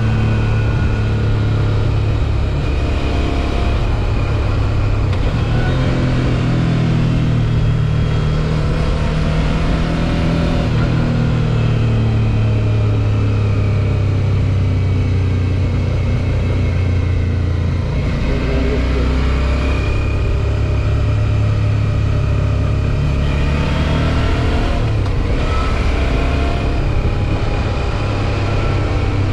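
Suzuki V-Strom 650 XT's 645 cc V-twin engine running under way, its note rising and falling several times with throttle changes.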